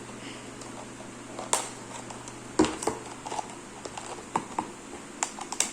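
Plastic ice cream cup and cardboard paper towel tube being handled and pushed together, giving scattered light taps and clicks with one louder knock about two and a half seconds in.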